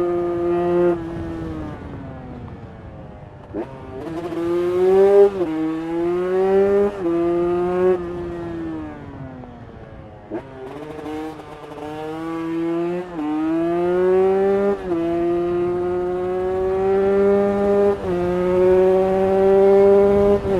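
Carbureted KTM 150 EXC two-stroke single engine with a Pro Circuit header pipe and stock silencer, accelerating hard through the gears. Its pitch climbs in each gear and drops sharply at each upshift, with two spells off the throttle where the engine note falls away, about two seconds in and again around eight seconds.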